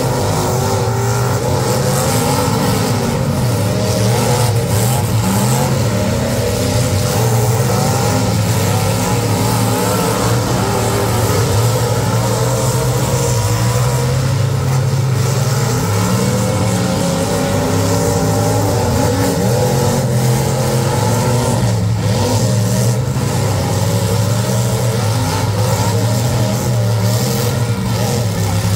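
Engines of several full-size demolition derby cars running and revving, their pitch rising and falling.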